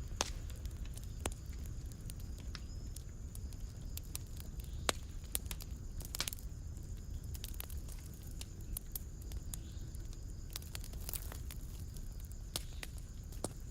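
Wood fire in a fireplace crackling: irregular sharp pops and snaps over a low, steady rumble of the flames, with a few louder snaps around the middle.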